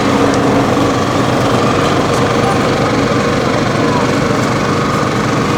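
Busy city street ambience: a steady mix of crowd chatter and passing traffic.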